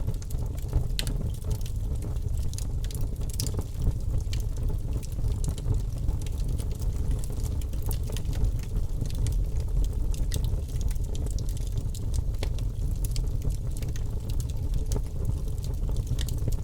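Birch logs burning in a fireplace: a steady low rumble of flames with scattered sharp crackles and pops throughout.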